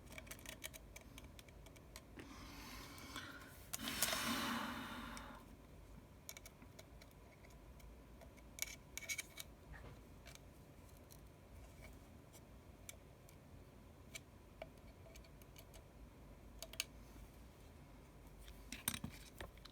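Faint, scattered small clicks and ticks of a precision screwdriver and small tools working the tiny screws inside an iPhone 6s, with a brief soft rush of noise about four seconds in.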